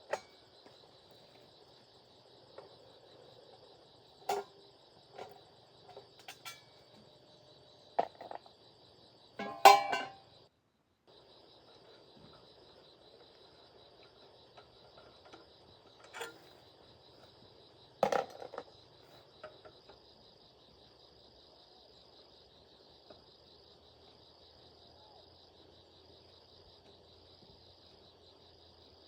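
Insects chirring steadily in a high, pulsing drone, with a handful of sharp knocks and clinks in the first twenty seconds, the loudest about ten and eighteen seconds in. The chirring cuts out for a moment about ten seconds in.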